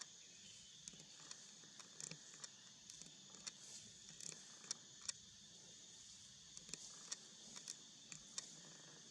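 Near silence: a faint steady hiss with many small, irregular clicks and taps scattered through it.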